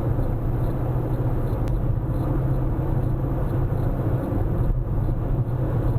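Car driving at highway speed: steady road and engine rumble.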